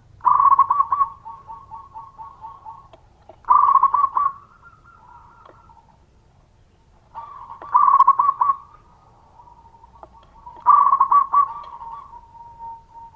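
Zebra dove (perkutut) cooing: four loud phrases about three and a half seconds apart, each a quick run of rolling notes lasting about a second, with softer drawn-out cooing between them.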